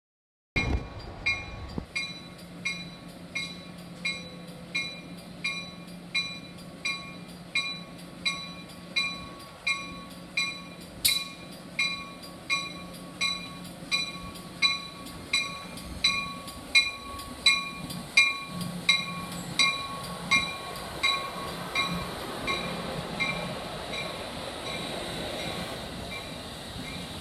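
Railroad bell ringing steadily, about one and a half strokes a second, over train noise. The ringing fades in the last few seconds as a broad rumble of the train grows.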